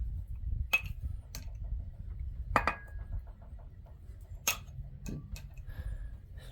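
About five sharp metallic clinks at irregular intervals, one with a short ringing tone, over a steady low rumble.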